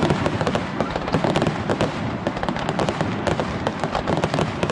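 Aerial fireworks going off in a dense, rapid barrage of bangs and crackles.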